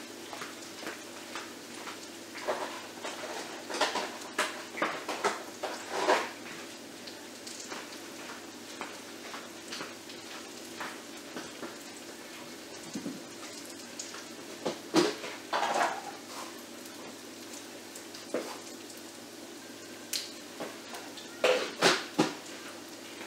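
Plantain fritters sizzling steadily in a pan of hot oil, over a steady low hum. Scattered clinks and knocks of dishes and utensils come in clusters, several in the first few seconds, a few midway, and a quick run near the end.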